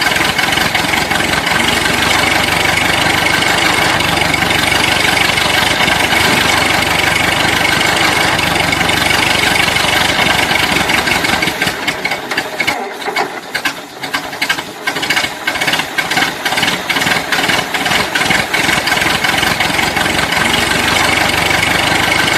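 An engine running steadily with a rattle, dropping in loudness for a few seconds about halfway through before picking up again.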